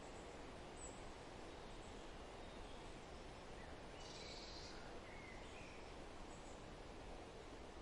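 Faint, steady outdoor background noise, with a few faint, short bird chirps in the middle.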